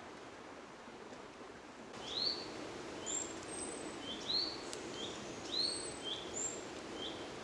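A songbird calling repeatedly from about two seconds in: short, curved chirps about once a second, with thinner, higher notes between them, over a steady low background hiss.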